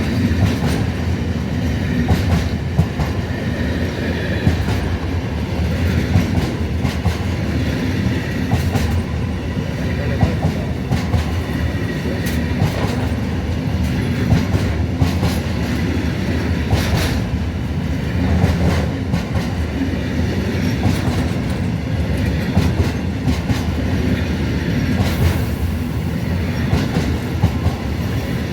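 Train rolling along the track: a steady low rumble with frequent clicks of the wheels over rail joints.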